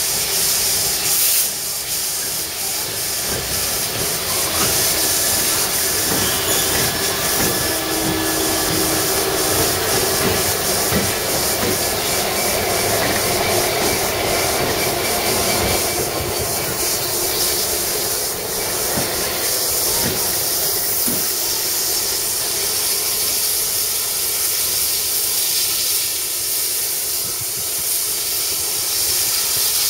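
Steam locomotive 60163 Tornado, an A1 Pacific, giving off a steady hiss of steam, with scattered clicks.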